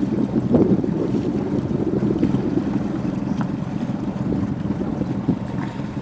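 Steady low rumble of wind on the microphone and water moving past a rowing boat, with a few faint clicks.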